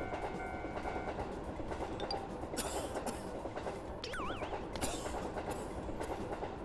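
Train running, a steady rumble of the car on the rails. A pulsing tone stops about a second in, with a few brief hisses and a short wavering whistle-like glide about four seconds in.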